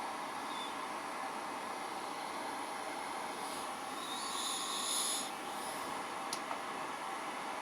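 High-speed electric spindle motor running on a frequency inverter: a steady whir with a high whine, the whine growing louder and brighter for about two seconds in the middle. A sharp click sounds once near the end.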